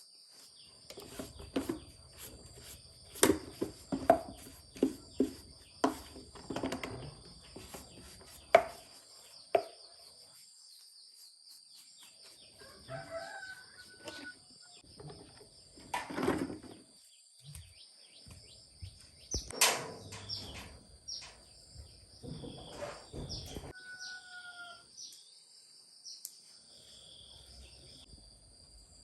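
Irregular sharp knocks and clicks, most of them in the first ten seconds, with chickens calling now and then and a steady high-pitched whine behind.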